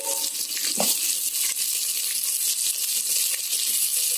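Sliced onions and green chillies sizzling steadily in hot oil in an electric pressure cooker's inner pot on sauté mode.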